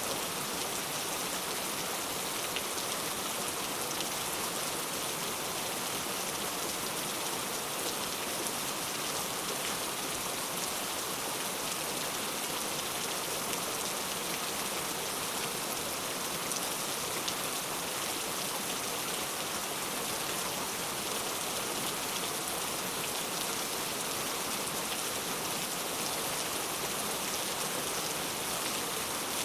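Heavy rain falling steadily on a surface, an even patter of drops with no pauses or thunder.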